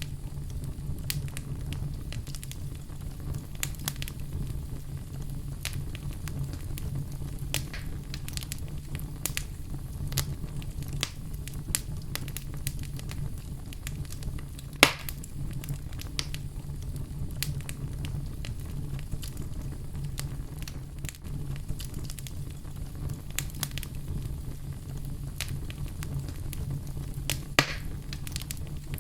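Fire burning in a fireplace, crackling with frequent small snaps over a steady low rumble. There is a loud pop about halfway through and another near the end.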